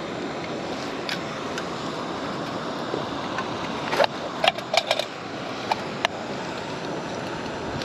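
A camping stove's gas burner hisses steadily under a pan, while a metal utensil clinks against the pan a few times, with a quick run of clinks about four to five seconds in.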